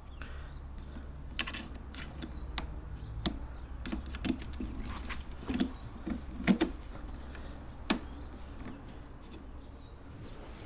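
Scattered clicks and knocks of plastic and metal lawn mower parts being handled and fitted during assembly, loudest about six and a half seconds in, over a steady low hum.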